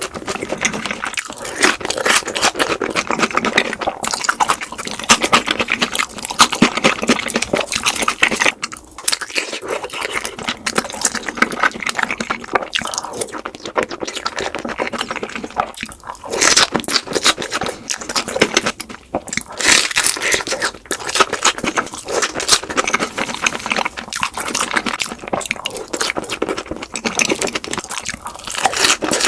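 Close-up crunching and chewing of crispy sweet Korean chicken, in quick, dense bites and chews sped up to double speed, with a few brief pauses.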